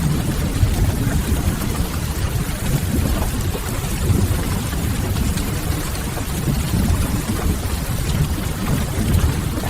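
Steady rain with a deep, even low rumble under it, mixed with the crackle of a wood fire.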